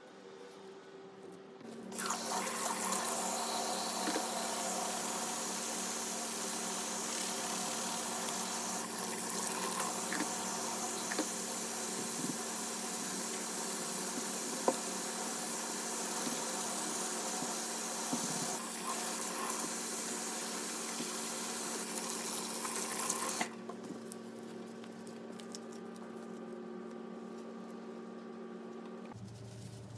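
Water running steadily, as from a tap, starting about two seconds in and cutting off suddenly about six seconds before the end.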